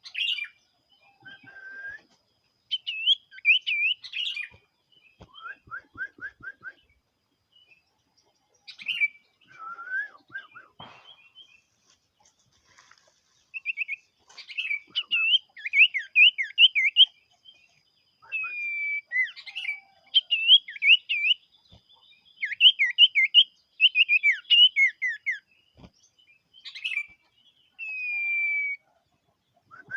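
Common iora (cipo) singing vigorously: repeated phrases of quick, sweeping whistled notes broken by short pauses, busiest around the middle and again about two-thirds of the way through.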